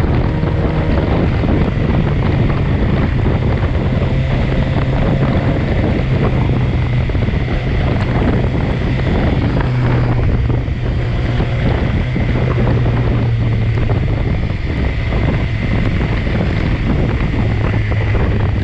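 BMW S1000XR's inline-four engine running at a steady cruise, with heavy wind rush on the microphone; the engine's hum drops a little in pitch near the end.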